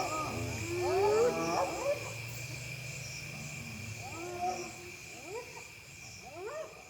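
Spotted hyenas calling at night in rising, arching whoops and yelps, with a low growl underneath, over a steady drone of insects; the calls fade out gradually.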